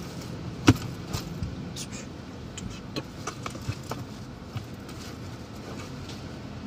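Steady low hum of the car's engine idling, heard from inside the cabin, with a sharp click less than a second in and a scatter of lighter clicks and taps after it.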